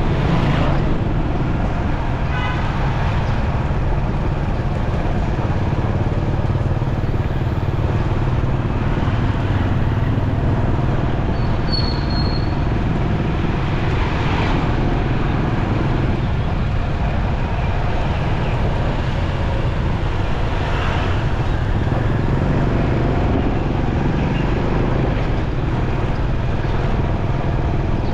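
Riding a motorcycle in city traffic: a steady engine and road rumble, with other vehicles swelling past now and then.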